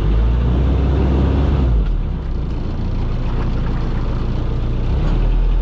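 A boat's engine running steadily with a low hum over a hiss of wind and water. The low hum drops about two seconds in and picks up again near the end.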